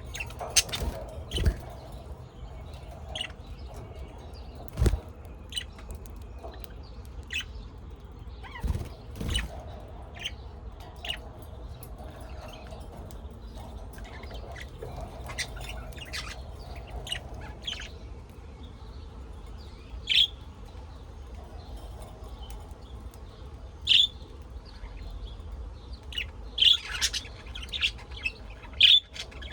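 Birds chirping, with short, sharp calls coming irregularly and several louder ones in the last third. A few dull thumps come in the first ten seconds.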